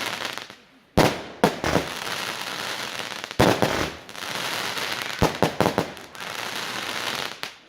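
Fireworks going off: sharp bangs about a second in, again at about three and a half seconds and at about five seconds, each followed by a couple of seconds of dense rapid pops.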